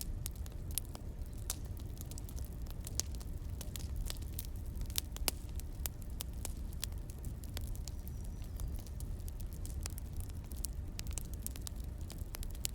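Wood fire burning, crackling with irregular sharp pops over a steady low rumble.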